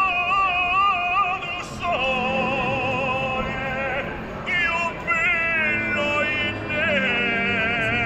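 Street performer singing an operatic song in a solo voice, with strong vibrato on long held high notes that change pitch every second or two.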